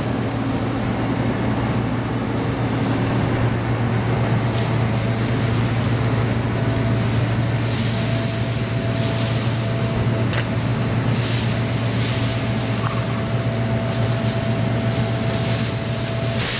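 Heavy diesel farm machinery at a maize silage clamp running steadily under load. A thin steady whine joins the low engine drone about four seconds in.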